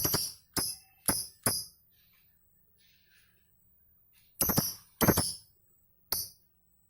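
Pet lovebird at a mirror making a series of short, sharp, high-pitched sounds, about two a second, then a pause of a few seconds and three more near the end.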